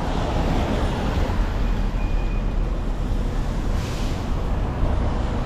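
Steady city street traffic: a continuous low rumble of passing vehicles, with a brief hiss of a passing vehicle about four seconds in.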